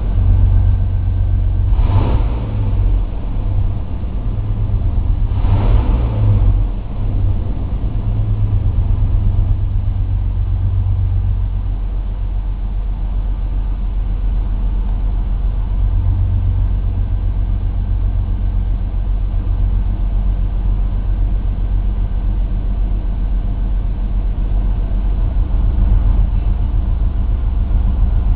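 Ford Mustang engine idling with a steady low rumble, with two brief surges about two and five and a half seconds in.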